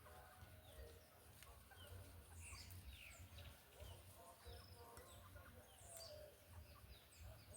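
Faint birds chirping outdoors: scattered short, high calls, a few each second, over a low rumble.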